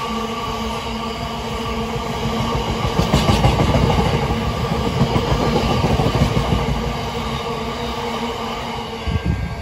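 Freight train of open box wagons rolling past at speed: a loud, dense rumble with clatter from the wheels on the rails and a steady hum, swelling louder about three seconds in.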